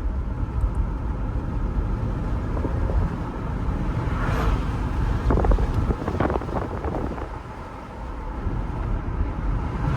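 BMW car being driven, its engine and road noise making a steady low rumble inside the cabin.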